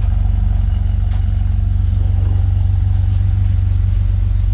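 2001 BMW E46 330Ci's 3.0-litre inline-six (M54) idling steadily on a cold engine.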